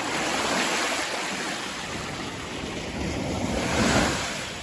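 Shallow sea water washing and lapping at the shore, swelling about half a second in and again near the end.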